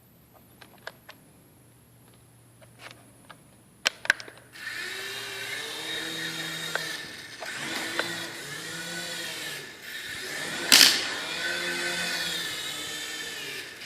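Electric motor and rotor of an F-415 4.5-channel R/C helicopter spinning up about four and a half seconds in, a whine that rises and falls in pitch several times. A few light clicks come before it, and a sharp clack about eleven seconds in.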